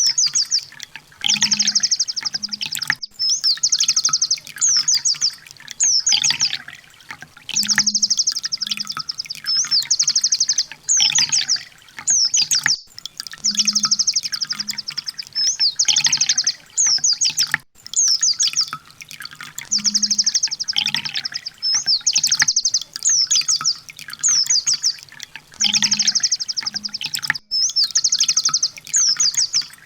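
Kolibri ninja sunbird song: fast high trills of rapidly repeated notes broken by sharp falling notes, the same phrase coming round about every six seconds as a looped training recording.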